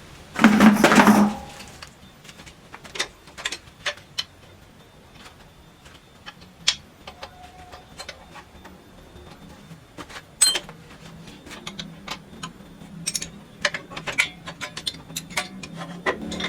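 Metal tools and parts clinking and knocking while a power hammer is taken apart, with one loud clatter lasting about a second near the start, then scattered sharp clicks and knocks.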